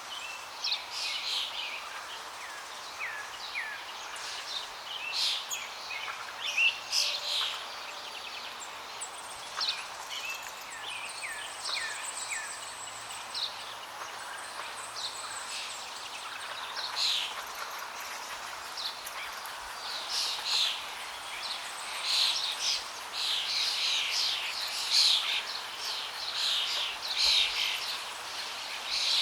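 Several birds chirping and calling in quick short notes over a steady rush of flowing water. The chirping grows busier in the last third.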